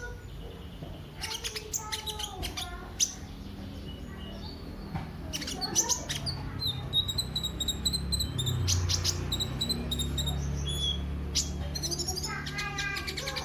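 Sunbird singing a fast run of high chirps, trills and quick whistled sweeps, over a steady low hum.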